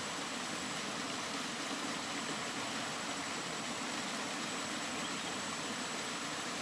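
Steady, continuous rain: an even hiss with no single drops or gusts standing out.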